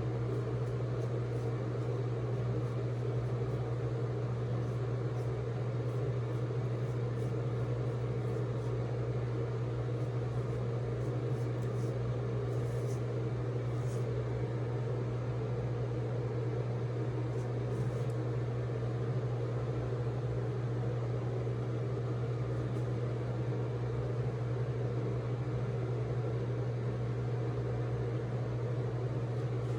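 A steady low hum that holds level throughout, with a few faint ticks in the middle.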